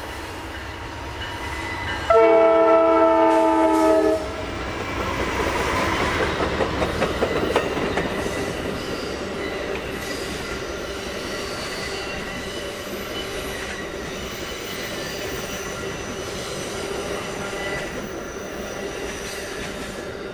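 A diesel locomotive's multi-chime air horn sounds one blast of about two seconds, then the train passes: wheels clicking over the rails as it nears, settling into a steady rumble of rolling cars with a faint high wheel squeal.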